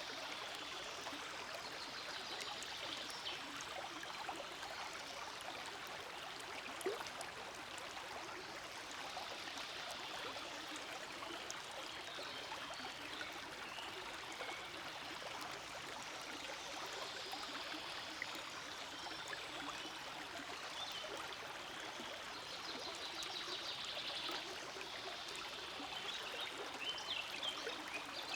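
Small forest stream flowing steadily, the water burbling and trickling over stones.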